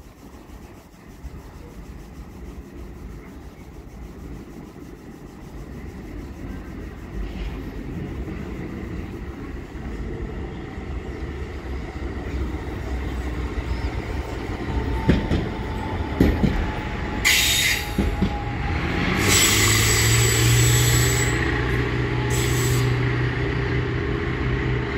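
A train approaching and running into the station: a rumble that builds steadily, then a few sharp clicks from the wheels over rail joints and bursts of high wheel squeal. A low steady engine drone joins near the end.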